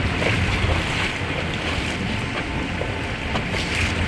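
Motorboat running under way: a steady low engine drone under wind on the microphone and rushing water.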